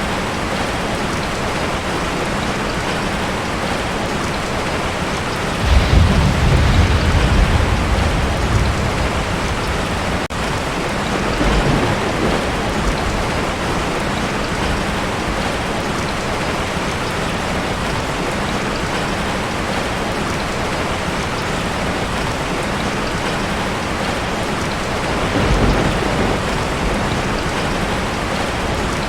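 Heavy rain falling steadily on a tin roof, with thunder: a loud low rumble a few seconds in that lasts about three seconds, a weaker rumble shortly after, and another near the end.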